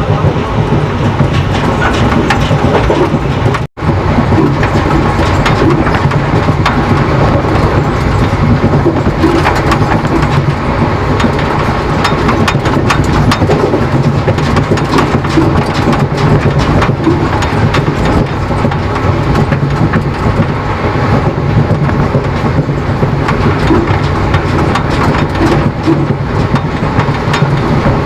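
Passenger express train running along the track: steady wheel-and-rail noise with many small clicks from the coach's wheels. The sound drops out for an instant about four seconds in.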